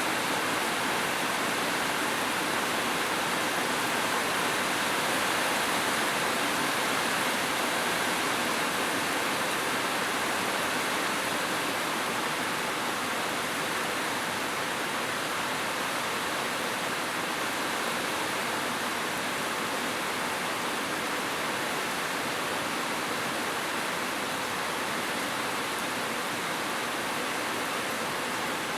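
Heavy rain falling steadily on a roof, an even hiss with no thunder in it.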